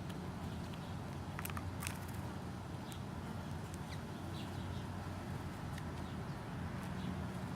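Birds at a feeding spot: a few short high chirps and sharp clicks over a steady low hum.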